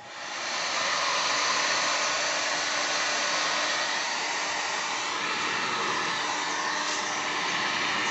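Electric hair dryer switched on, spinning up over about the first second and then blowing steadily.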